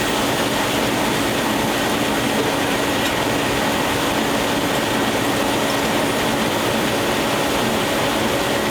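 Steam-powered sawmill machinery running steadily: a constant mechanical noise with a faint steady hum and whine, and no sudden cuts or knocks.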